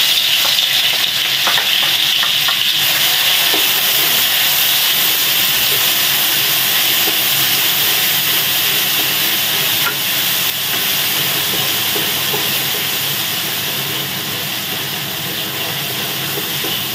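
Pounded shallot, garlic and ginger paste sizzling in hot oil in a wok. A loud frying hiss starts suddenly as the paste goes in and eases a little after about ten seconds, with a wooden spatula scraping as it stirs.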